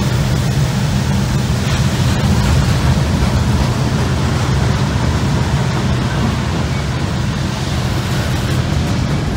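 Loaded steel coil cars of a freight train rolling past close by: a steady heavy rumble of wheels on rail, with a low drone under it.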